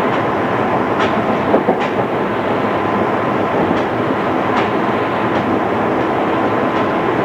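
Running noise heard inside a JR East 211 series electric train: a steady rumble under a faint tone, with the wheels clicking over rail joints in pairs several times.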